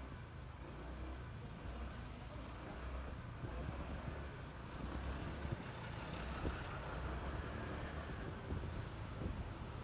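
Honda ADV 150 scooter's single-cylinder engine running on the move, with wind buffeting the microphone as a low rumble. The engine and road noise grow a little louder about halfway through.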